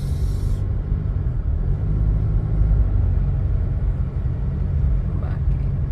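Car driving along a street: steady low engine and road rumble, with a short hiss right at the start.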